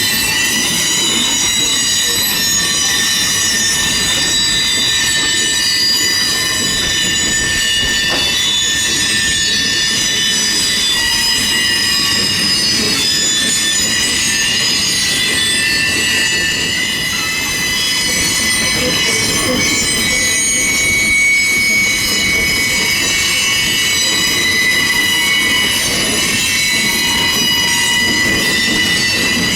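Railroad cars rolling past with their wheels squealing: several steady high-pitched squeals held together over a low rolling rumble.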